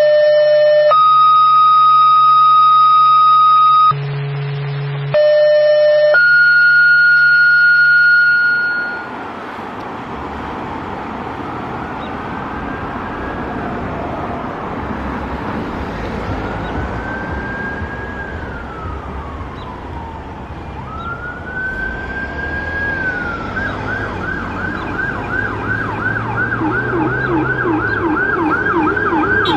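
A run of clean, steady electronic tones that step to new pitches several times, then fire-apparatus electronic sirens wailing in slow rising and falling sweeps, switching to a fast yelp about 24 seconds in, with a second, lower siren yelping alongside near the end.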